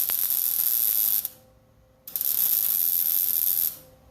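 Arc welder stitch-welding a sheet-steel truck floor pan: one weld runs to about a second in, then after a short pause a second weld of about a second and a half.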